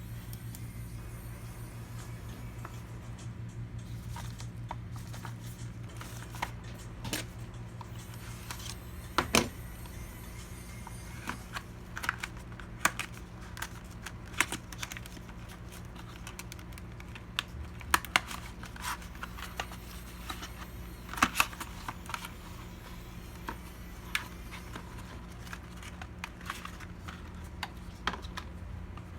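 Scattered clicks and light knocks of small hard parts being handled during a PC build, a few louder ones standing out, over a steady low hum.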